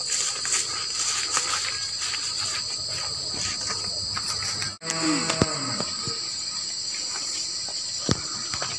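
A steady, high-pitched chorus of insects such as crickets or cicadas, with scattered rustles and footsteps through undergrowth. The sound drops out for an instant about halfway through.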